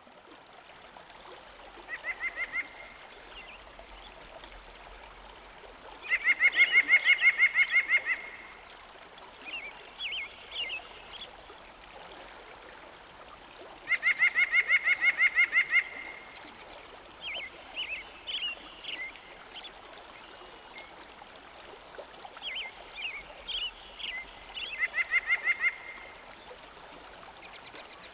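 Outdoor wildlife calls: four loud, fast trills about two seconds each, with clusters of short chirping notes between them, over a steady hiss like running water.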